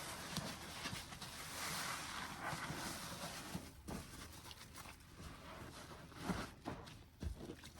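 A wet, soapy sponge squeezed by hand: a fizzing squish for the first three seconds or so, then quieter crackles and soft squelches as it is pressed again.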